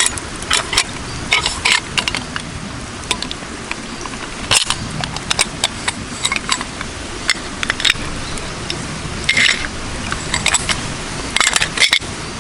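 Campfire crackling: burning wood gives irregular sharp pops and snaps, some in quick clusters, over a steady background rush.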